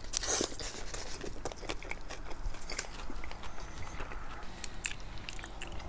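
A person biting into a Subway Italian BMT sub on herb-and-cheese bread about a quarter of a second in, then chewing the mouthful close to the microphone, with many small, irregular wet clicks and crackles.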